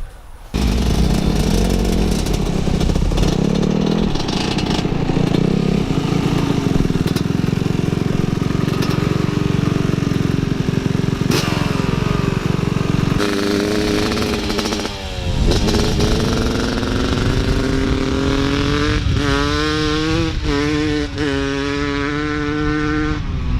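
Small off-road engine running under way, with wind on the microphone; its pitch climbs steadily through the second half and wavers up and down near the end.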